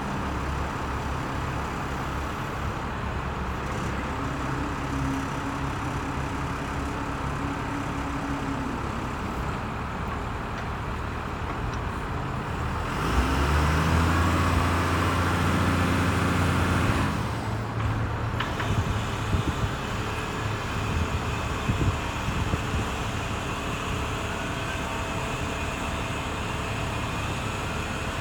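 Ford LN7000 truck crane's engine running steadily, louder and at higher speed for about four seconds near the middle before settling back. A few sharp clicks or knocks follow.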